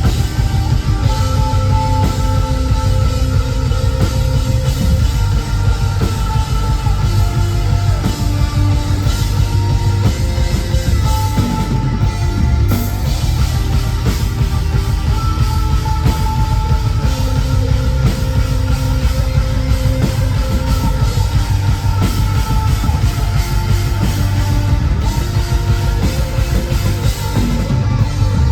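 Rock band playing live: a driving drum kit and dense, loud instruments with long held melodic notes over them.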